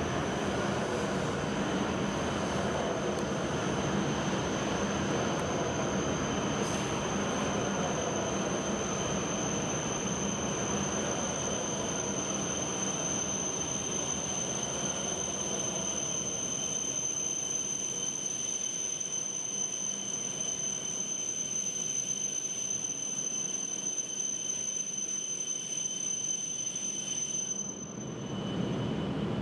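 E7 series Shinkansen train rolling slowly into the station. Its wheel-and-rail noise fades as it slows, under a steady high whine that cuts off near the end.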